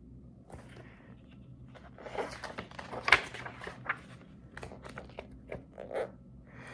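Paper pages of a picture book being turned and handled: rustling and crinkling broken by a string of light clicks and taps, busiest in the middle.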